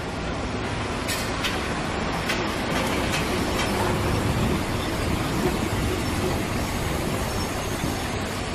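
An electric locomotive and its coaches rolling past slowly, a steady rumble of running gear. Several sharp clicks of wheels over rail joints come in the first few seconds.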